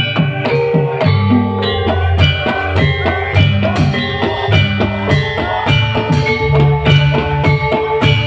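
Live band music with drums and bass playing a steady, fast beat, with pitched melody notes over it.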